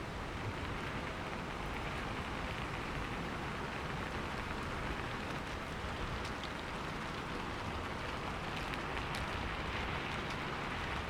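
Steady rain falling: an even, continuous hiss with a few faint scattered drop ticks.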